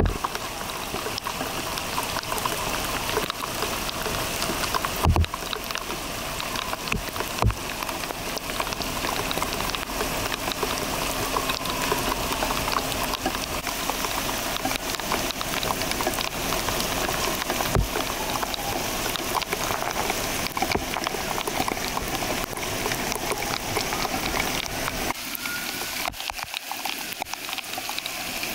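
Heavy rain pouring onto a flooded street, a steady hiss of drops splashing into standing water. A few dull knocks come through, about five seconds in and again near the middle.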